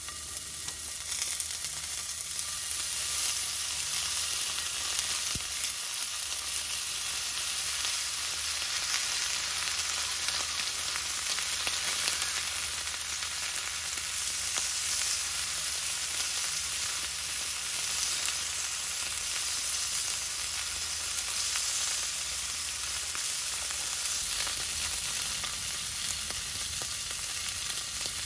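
Food frying: a steady sizzle with fine, dense crackling.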